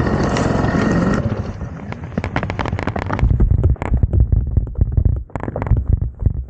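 Yamaha PW50 two-stroke 50cc engine running, then cutting out about a second in as the bike tips over and stalls. A run of sharp knocks, scrapes and heavy thumps follows.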